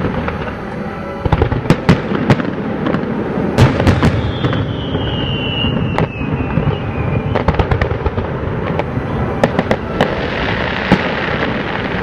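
Fireworks display: irregular sharp bangs and pops of shells bursting, with a high whistle that slides slowly down in pitch for about three seconds in the middle.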